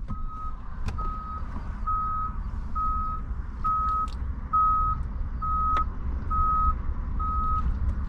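Vehicle reversing alarm: a single high beep repeating evenly, a little faster than once a second, over a low rumble.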